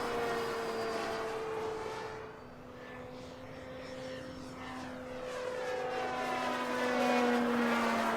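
Electric-powered RC P-47D warbird flying, its motor and propeller giving a steady droning hum. The hum fades as the plane moves off about two seconds in, then grows louder again near the end as it comes back past, dropping slightly in pitch.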